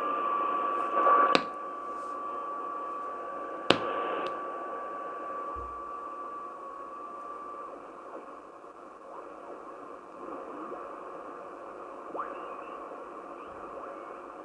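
Grundig Satellit 3400 shortwave receiver hissing with static between stations on the SW8 band. A steady heterodyne whistle fades out about halfway through, two sharp clicks of static come in the first four seconds, and faint whistles glide past near the end.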